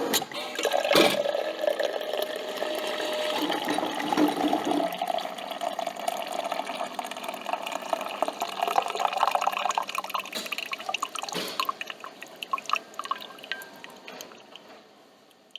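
Coffee trickling and dripping from a coffee machine into a cup, with a couple of knocks, fading out gradually near the end.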